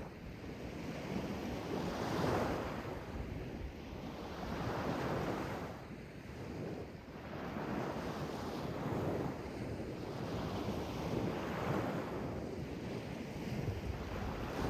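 Sea waves breaking and washing in, surging about five times at intervals of two to three seconds, over a low wind rumble on the microphone.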